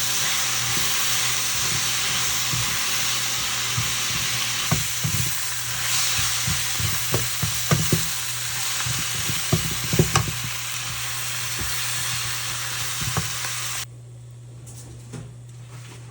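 Lamb skewers sizzling on a grill, a steady loud hiss with a low hum beneath and scattered sharp crackles and pops. The sizzling cuts off suddenly near the end.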